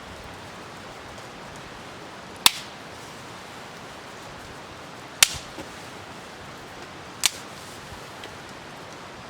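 Three sharp wooden knocks a couple of seconds apart as damp wood is split and snapped with a knife, over a steady hiss of light rain.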